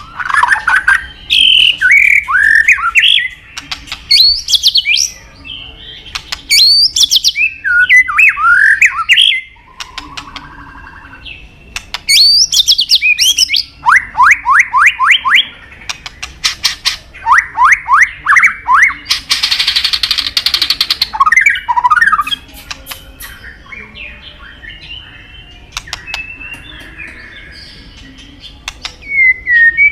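White-rumped shama (murai batu) singing a loud, varied song: whistled phrases sliding up and down, sharp clicks, and quick runs of rising notes. About two-thirds of the way through comes a harsh buzzy rattle.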